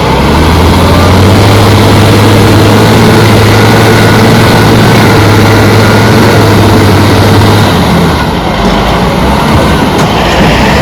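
Heavy diesel engine of earth-moving machinery running steadily with a deep, even drone that drops away about eight seconds in, leaving a rougher engine noise.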